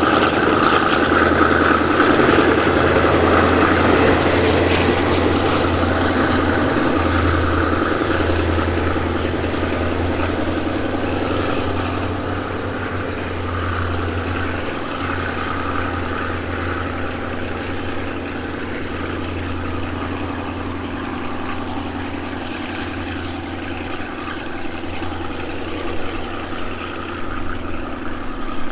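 A diesel-hauled passenger train pulling away: coach wheels rolling over the rails with the low, steady drone of the Alsthom diesel-electric locomotive working hard under it, the whole sound slowly fading as the train draws off.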